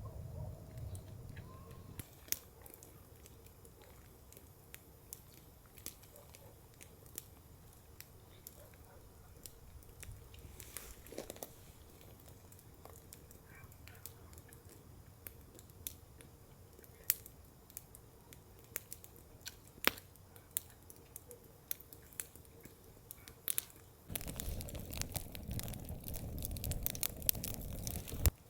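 Scattered sharp clicks and crackles over a faint steady hum. Near the end a louder stretch of low rumbling noise comes in, then cuts off suddenly.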